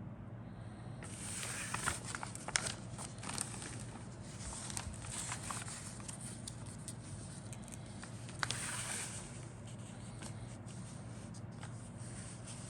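Plastic model kit parts being handled: rustling of the parts' plastic bags and sharp clicks of sprues and box, loudest about 1 to 3 seconds in and again about 8 seconds in, over a steady low hum.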